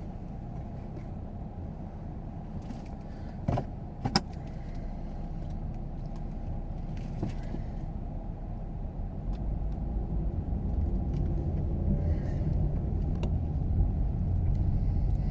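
Cabin noise of a 2017 Ford Edge with a 3.5-litre V6 being driven: a steady low engine and road rumble that grows louder about two-thirds of the way through. Two short sharp clicks a little over half a second apart sound early on.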